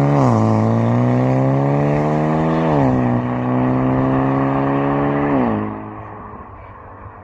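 Kia Stinger Meister 2.5T's turbocharged four-cylinder engine accelerating hard through a custom valved exhaust, its pitch climbing and dropping twice at quick automatic upshifts. The engine lets off about two-thirds of the way through, and the exhaust note falls away.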